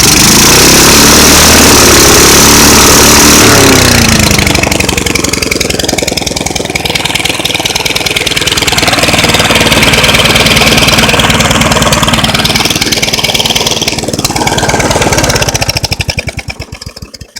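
Small carbureted engine running rough: it runs high at first, sags, surges back up, then slows and dies near the end. It won't reach redline, which the owner suspects is a faulty carburetor diaphragm.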